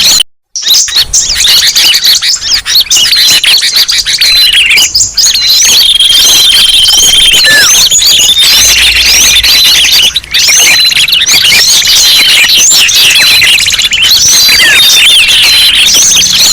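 Dense, loud chorus of many small songbirds chirping, trilling and whistling all at once, mixed as a bird-lure recording. It cuts out for a split second about half a second in.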